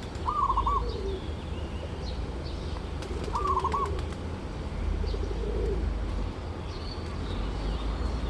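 Zebra doves cooing: short rippling, trilled phrases, two of them higher-pitched and about three seconds apart, mixed with lower coos. Faint chirps of small birds and a steady low background hum run underneath.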